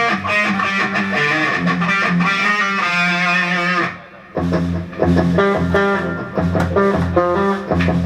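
Electric guitar playing a riff, with a low bass part under it; the playing breaks off briefly about four seconds in, then starts again.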